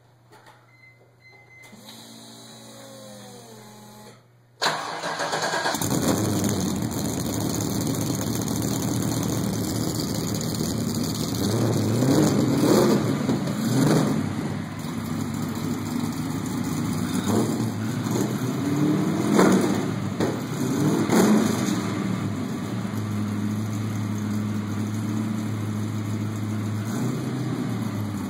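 A 427 cubic-inch LS3 V8, breathing through JTR headers and a Magnaflow Tru-X mid-muffler on an unfinished exhaust, cranks and catches about four and a half seconds in, then idles. Several short throttle blips come in the middle, kept low because the engine is not yet tuned. It then settles back to a steady idle.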